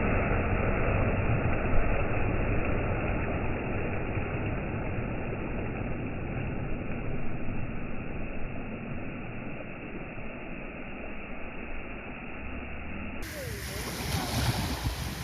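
Waves washing onto a black sand beach: a steady rushing surf that slowly rises and falls in loudness. About 13 seconds in, the sound turns suddenly brighter.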